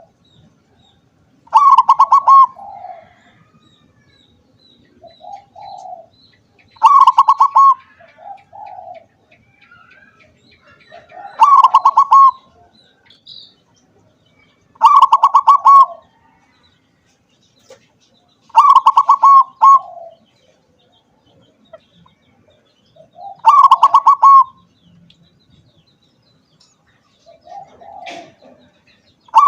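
Zebra dove (perkutut) cooing: a loud, rapidly pulsed coo phrase repeated every few seconds. Softer, lower notes come before or after each phrase.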